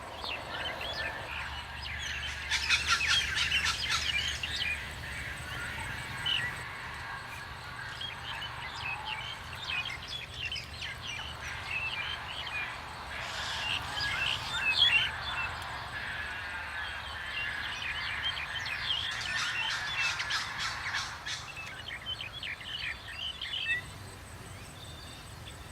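Common mynas calling: a busy run of overlapping chattering calls and chirps, with louder spells a few seconds in, around fourteen seconds and around twenty seconds.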